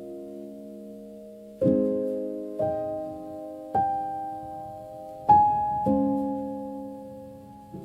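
Slow, gentle piano music: a held chord fading away, then single notes and chords struck about once a second from a second or so in, each left ringing and dying out.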